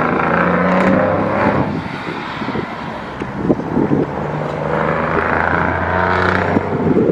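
A motor vehicle's engine running: a steady low hum, with a louder, rougher swell near the start and again about two-thirds through.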